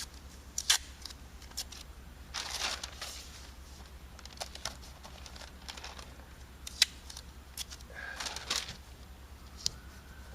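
Scattered sharp clicks and taps, with two short rustling bursts about two seconds in and again near the end, over a steady low hum.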